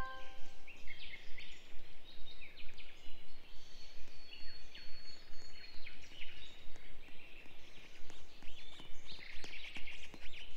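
Birds chirping: many short, overlapping chirps.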